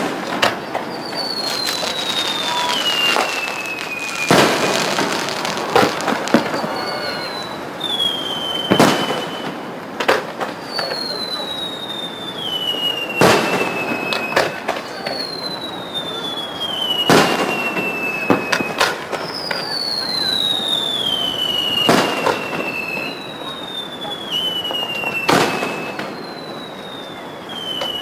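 Whistling aerial firework shells: each gives a falling whistle lasting about three seconds and then bursts with a sharp bang, six times in a steady rhythm, over constant crackling.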